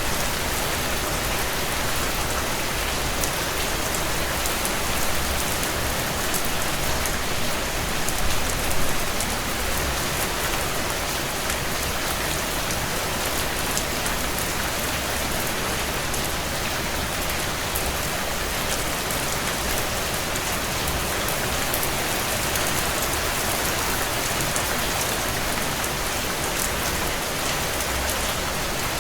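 Heavy rain falling steadily on a tin roof, a dense patter of many drops, swelling slightly about eight seconds in.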